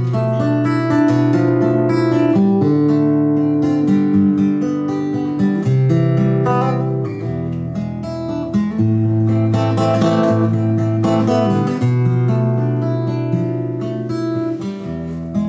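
Acoustic guitar strummed in a steady chord progression: an instrumental interlude between sung verses of a song.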